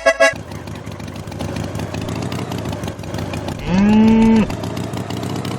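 A cow mooing once, a single call of under a second about two-thirds of the way in, over a steady engine-like rumble. A last note of accordion music cuts off right at the start.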